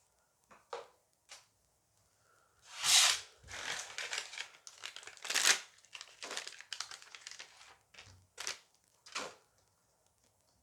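A Dice Masters booster pack being torn open and its wrapper crinkled and handled, in a run of rustling bursts after a quiet start, loudest about a second into the bursts.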